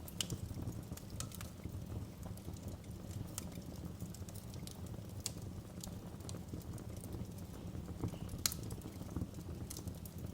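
Wood fire crackling in a fireplace: a steady low rumble of the flames with scattered sharp pops and snaps at irregular intervals, one louder pop a little past the eight-second mark.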